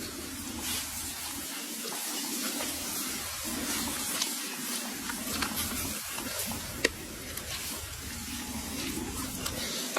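Food frying in a pan with a steady sizzle, and a few sharp clinks of a utensil stirring it.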